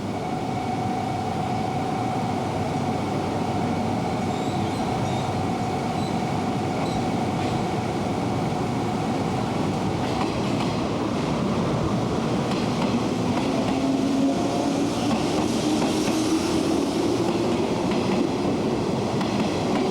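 Electric commuter train running at a station platform, with steady rail and running noise. In the second half a motor whine rises steadily in pitch.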